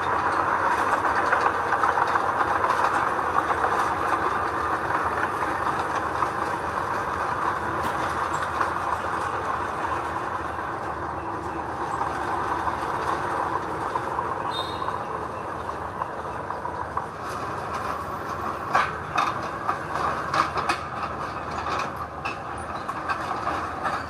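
Heavy earthmoving machinery running steadily, with sharp metallic clanks and knocks coming more often in the second half.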